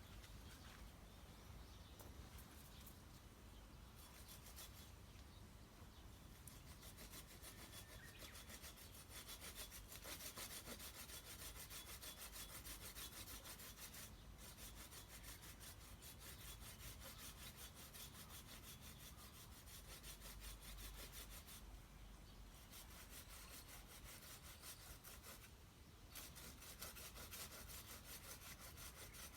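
Hand saw cutting through a tree's wood: steady rasping strokes, stopping briefly a few times.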